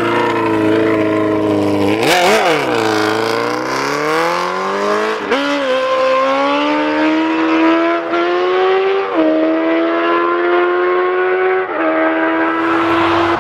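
A vehicle engine accelerating through the gears: a quick rev up and down, then the pitch climbs steadily and drops suddenly at three upshifts.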